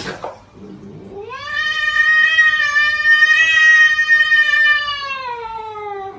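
A cat yowling: one long, drawn-out call that starts about a second in, rises in pitch, holds steady for several seconds, then slides down near the end.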